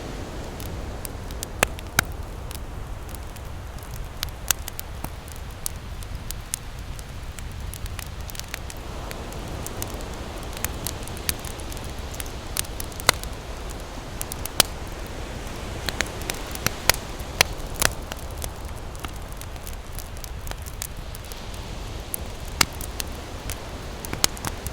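Wood campfire crackling, with sharp pops scattered irregularly over a steady low rumble of ocean surf.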